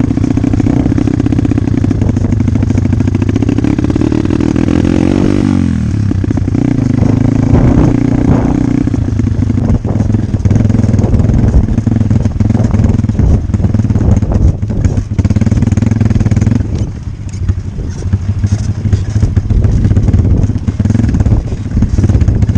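Dirt bike engine running steadily. Its note falls about five seconds in as the revs drop, and it eases off briefly again near seventeen seconds, with scattered clicks and clatter over the engine.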